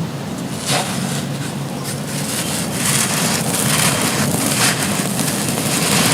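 Dry, gritty crumbly material being crushed and crumbled, a continuous gritty crackle with crunches about once a second that grow denser and louder after about three seconds, over a steady low rumble.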